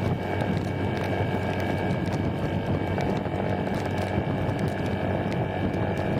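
Small underbone motorcycle riding at a steady speed in heavy rain: the engine runs steadily under a constant rush of wind and rain on the microphone.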